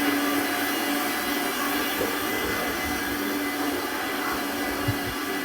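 Steady whirring machine noise with a constant low hum, and a faint low thump near the end.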